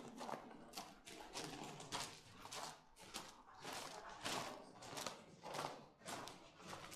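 Footsteps at a steady walking pace, a little under two steps a second.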